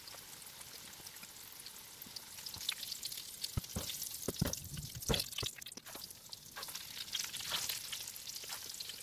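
Battered fennel strips frying in hot oil in a pan: a steady crackling sizzle. A few sharp clicks sound in the middle.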